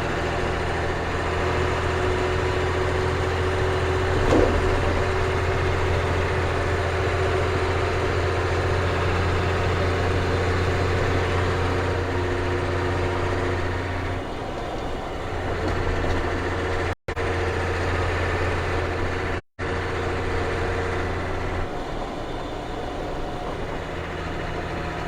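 Ford 6.6L Brazil diesel of a CF7000 truck running on the road, a steady low drone that changes about 14 seconds in and again near 21 seconds in.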